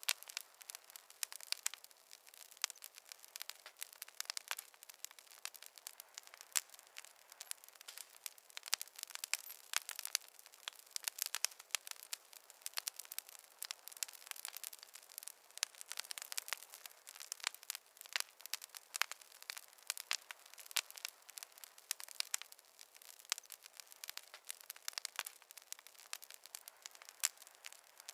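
Wood fire crackling in a fireplace: a continuous stream of sharp irregular snaps and pops over a faint hiss, with no low rumble.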